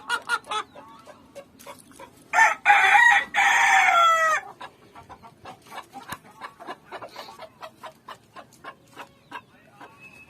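Chickens clucking quickly, then a rooster crows once for about two seconds, the call dropping in pitch at its end, followed by soft scattered clucks.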